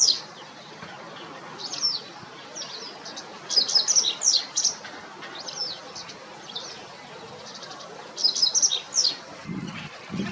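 Japanese wagtail calling: several bursts of short, sharp, high notes that slur downward, with pauses between the groups.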